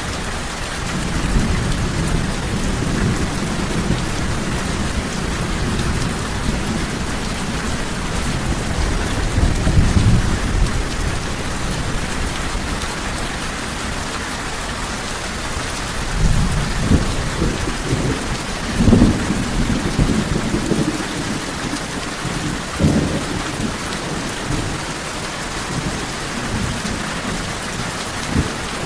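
Steady heavy rain with rolls of low rumbling thunder, the loudest swells about ten seconds in and again through the second half.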